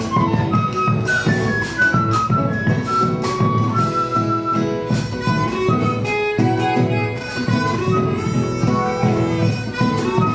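A band playing a chacarera, an Argentine folk dance tune: an instrumental passage with a single melody line over steady strumming and accompaniment.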